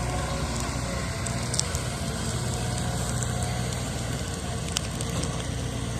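Wood bonfire burning, crackling with scattered sharp pops, the strongest about one and a half seconds in and near the end, over a steady low rumble.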